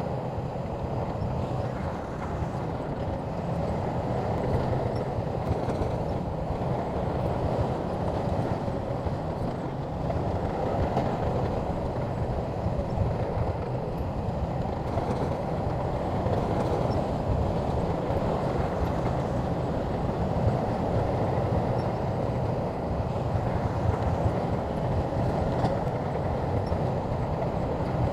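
Shantui crawler bulldozer working: its diesel engine runs steadily under load as it pushes and levels earth.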